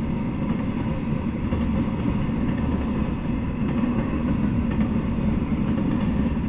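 Intermodal freight train of trailer-carrying flatcars rolling steadily past: a continuous low rumble of steel wheels on the rails.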